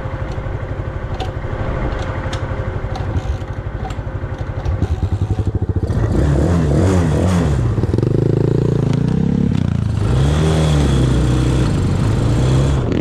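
Engine of an off-road vehicle running low with scattered clatter for about five seconds, then revving up hard, its pitch rising and falling several times as it accelerates away.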